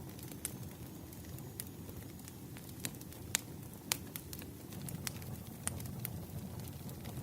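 Wood fire crackling: a low steady rumble of flames with scattered sharp pops, two louder ones a little past the middle. A faint thin high whistle sounds for the first couple of seconds.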